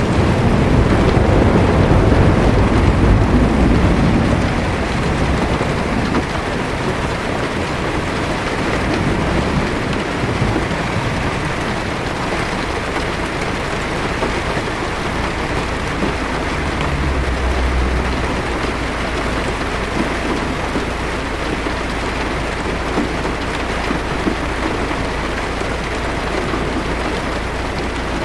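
Heavy rain drumming steadily on a car's roof and windshield, heard from inside the car. A low rumble of thunder swells and fades over the first few seconds, and a steady low hum sits underneath from a little past the middle.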